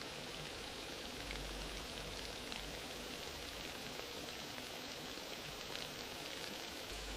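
Wood fire burning in a fireplace: a steady hiss with many small, light crackles and pops.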